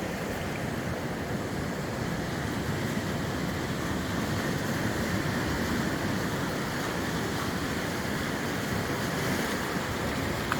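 Sea surf breaking and washing on a rocky shore, a steady rushing noise, mixed with strong wind blowing across the microphone.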